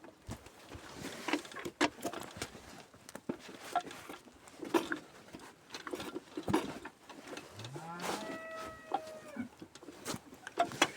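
Scattered metallic clicks and knocks of hand work on a Riga-16 moped, with one short rising squeal, a pitched tone that climbs and then holds, about eight seconds in.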